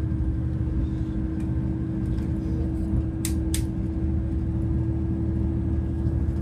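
V/Line diesel passenger train running at speed, heard from inside the carriage: a steady low rumble with a constant hum, and two short sharp clicks a little after three seconds in.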